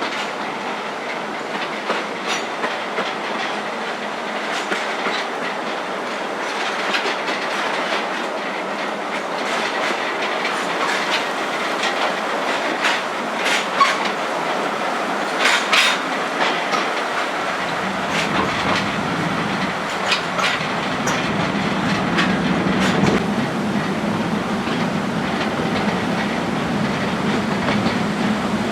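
Narrow-gauge forest railway train running, heard from aboard: a steady rumble of wheels on rail with scattered sharp clicks over the joints. A low hum joins in about two-thirds of the way through.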